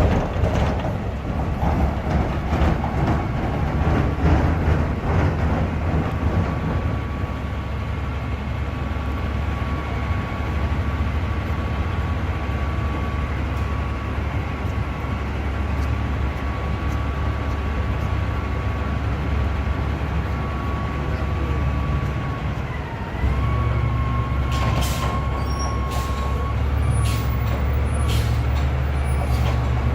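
Diesel engine of a recycling truck running, with a steady high whine over its rumble. About 23 s in the engine picks up and gets louder, followed by several sharp clanks or hisses.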